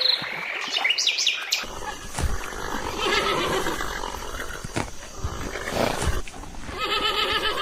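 Birds chirping for about the first second and a half, then an animal calling loudly several times in long, wavering cries.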